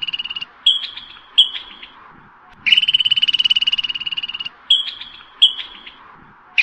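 Squirrel calling: a long, rapid chattering trill of nearly two seconds followed by two short chirps, the pattern repeating twice.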